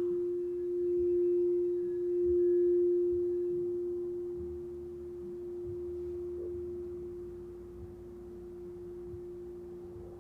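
A single sustained pure ringing tone from a sound-healing instrument, swelling and ebbing in loudness during the first few seconds, then slowly fading as it rings out.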